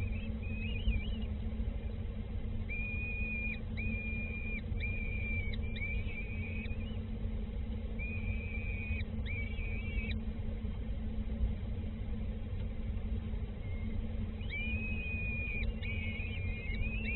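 A bird giving a series of thin, high, even-pitched whistled calls, each under a second long, in runs with pauses between, over a steady low hum.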